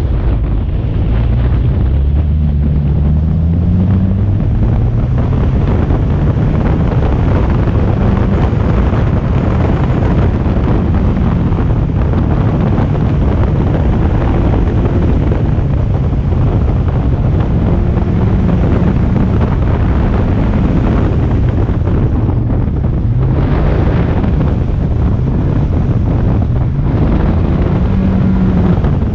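Rallycross car's engine repeatedly revving up and dropping back as it is driven hard through the course, under heavy wind noise on the microphone and rough tyre and road noise.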